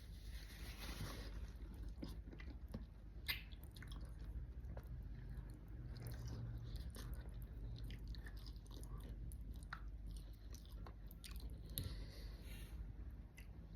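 Close-miked chewing and biting of food, mukbang style, with irregular crisp crunches and wet mouth clicks.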